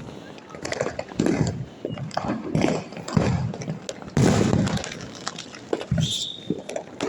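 Diwali firecrackers and fireworks going off in an irregular string of bangs and crackles, the loudest bang about four seconds in.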